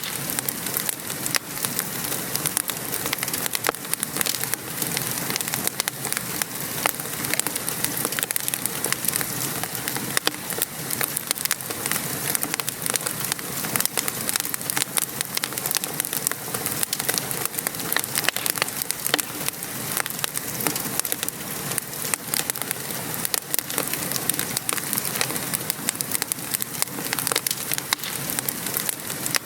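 Steady rain falling, mixed with the irregular snaps and crackles of a fireplace fire.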